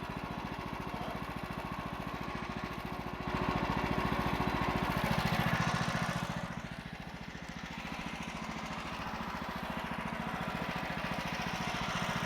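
14 HP Kohler engine on a portable bandsaw mill running steadily at low speed. It gets louder about three seconds in, then settles back a few seconds later.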